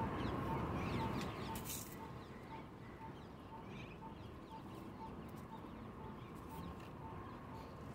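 Birds calling, one repeating a short note about twice a second, over faint higher chirps and low outdoor rumble.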